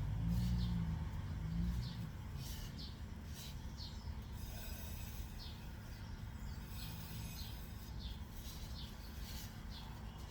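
Short bird chirps come and go over a steady low background hum, with a low murmur in the first couple of seconds.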